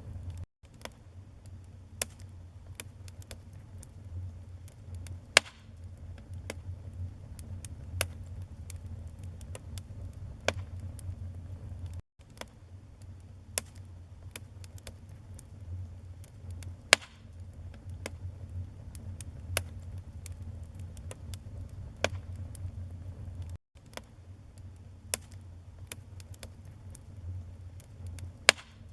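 Wood fire burning in a fireplace: a steady low rumble of flame with irregular sharp crackles and pops from the burning logs, several a second at times, a few of them much louder. The sound cuts out completely for a split second three times.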